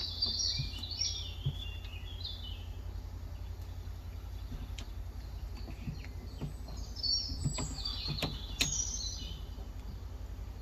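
Songbirds chirping and singing in two bursts of quick phrases, one at the start and another about seven seconds in. A few scattered clicks from the keyboard and a steady low hum sit underneath.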